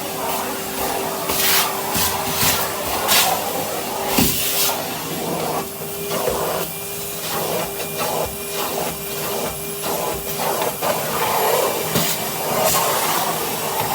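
Vacuum cleaner running with a steady whine and hiss, its brush tool giving repeated short knocks and scrapes against surfaces as it is worked over cobwebs.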